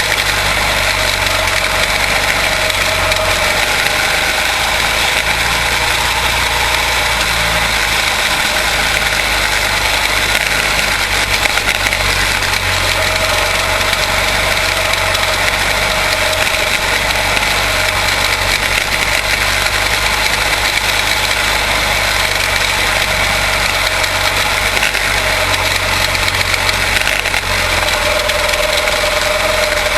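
Quarter midget race cars with small single-cylinder Briggs & Stratton Animal engines, running steadily on track.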